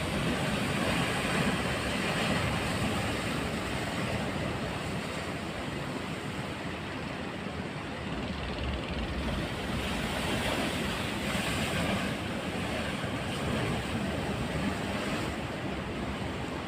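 Rough sea, waves washing and surging, with wind buffeting the microphone: a steady rushing noise.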